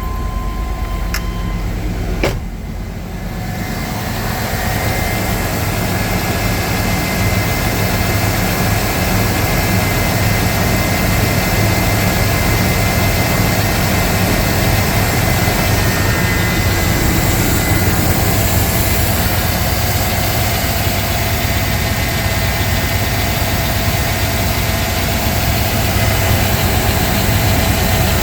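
1995 GMC Sierra 1500 pickup engine idling steadily just after a cold start, having sat for four or five days. There is a single click about two seconds in, after which the running sound grows fuller and louder within a couple of seconds and then holds steady.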